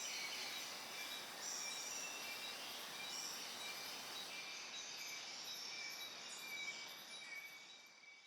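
Rainforest ambience: a steady hiss with birds chirping and calling in short rising notes over it, all fading out near the end.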